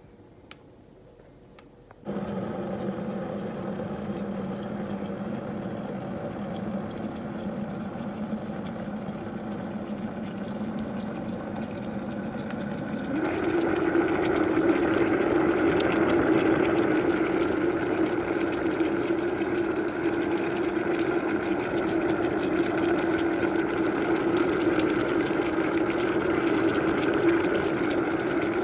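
Electric kettle heating a water-and-vinegar descaling solution: a steady hum starts suddenly about two seconds in, then grows louder with a stronger tone about halfway through as the water heats toward the boil.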